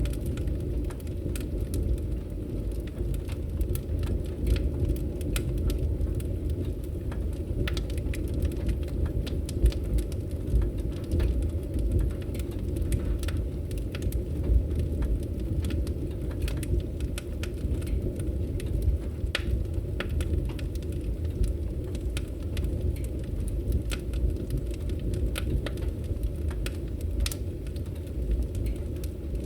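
Wood fire crackling in a fireplace: a steady low rumble of burning, with frequent irregular sharp crackles and pops.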